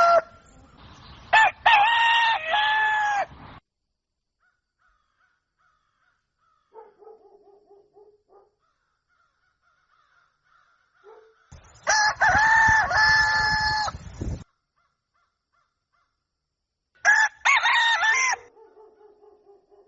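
Rooster crowing three times, each crow about two to three seconds long. Fainter, lower calls come between the first and second crows.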